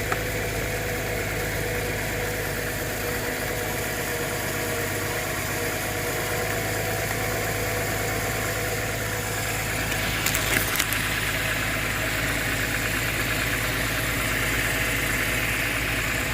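Subaru Tribeca's 3.0-litre six-cylinder boxer engine idling steadily just after a restart. The mechanic feels it running as if it has a dead cylinder, a misfire. A few quick clicks come a little past the middle.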